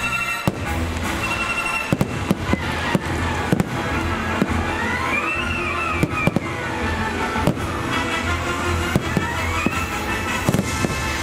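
Fireworks going off in many sharp, irregular bangs and cracks over loud music from the fireworks show's soundtrack, in which a tone twice swoops up and back down.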